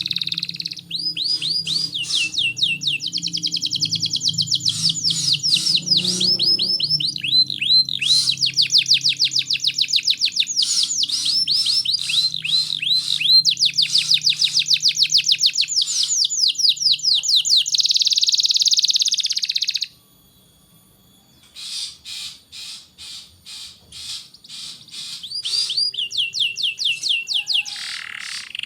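Domestic canary singing a long song of fast trills, each phrase a rapid run of one repeated note. About two-thirds of the way through the song stops briefly, then picks up with quieter clicking notes before the trills return.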